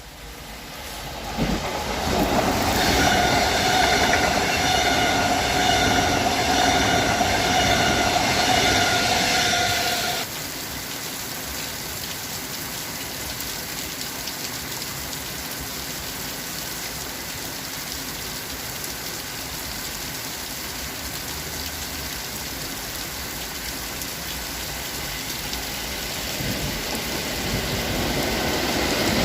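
A train passing on the rails: a loud stretch with a steady high ringing tone that stops abruptly about ten seconds in, then a steady lower rolling noise that grows louder again near the end.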